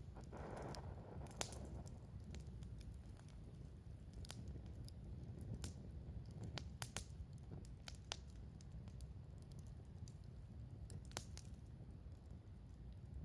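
Wood campfire crackling: irregular sharp pops and snaps over a low steady rumble of the flames.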